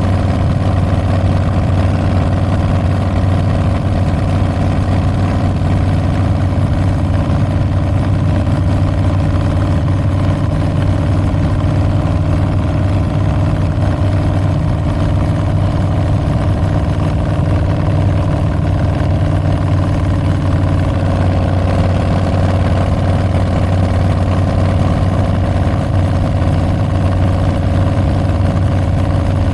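Harley-Davidson Street Bob's Milwaukee-Eight 114 V-twin running at a steady, even pitch through Tabs Performance slip-on mufflers with Zombie Baffles. The engine note is deep and holds at one level without revving.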